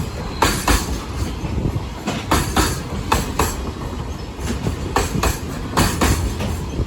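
Freight train hauled by an EF64 electric locomotive, pulling out of a station: its wagons' wheels rumble along and clatter over the rail joints in quick pairs of clicks, the clickety-clack of bogies passing one after another.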